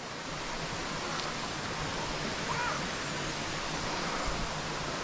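Waterfall pouring down into its river pool: a steady rushing hiss of falling water.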